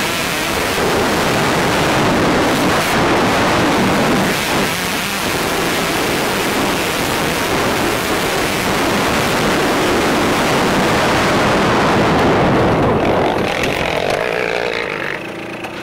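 Motocross bike being ridden on the track, its engine running hard under a dense rush of wind on the helmet-camera microphone. About two seconds before the end the bike slows and the engine drops to a low, steady run.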